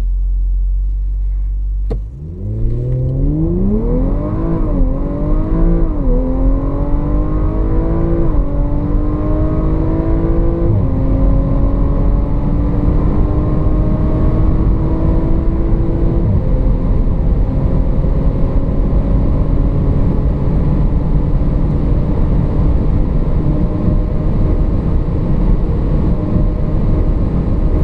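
2018 Audi RS4's twin-turbo V6 idling, then pulling hard from a standstill about two seconds in, its note climbing through the gears with a drop at each of five upshifts, the shifts coming quickly at first and further apart later. After the last shift the engine holds a steady, slowly rising note over a heavy low rumble at speed.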